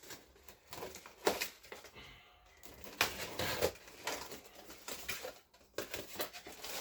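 Rummaging through a box of parts and packaging: irregular rustling with scattered light clicks and knocks.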